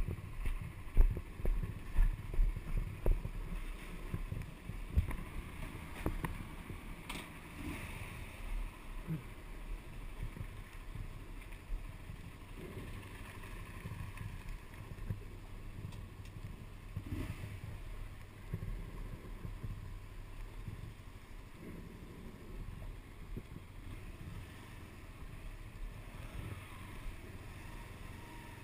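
Footsteps crunching on gravel for the first few seconds, then a Honda CBR125R's single-cylinder engine idling with a steady low hum.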